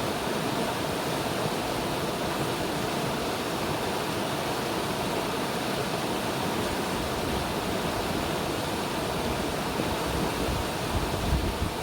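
River water rushing steadily, an even hiss of flowing water. A low rumble builds near the end.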